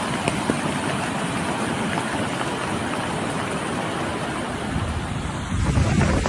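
Steady rushing noise of flash floodwater, with a louder low rumble for about a second near the end.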